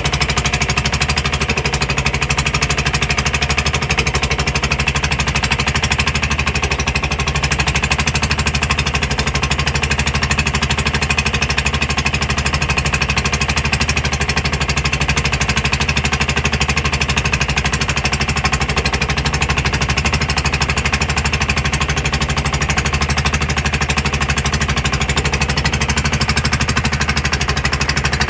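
Small boat's engine running steadily with a fast, even pounding beat.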